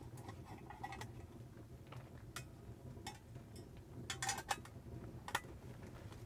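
Scattered light clicks and taps, with a quick cluster about four seconds in and the sharpest one near the end, over a low steady hum.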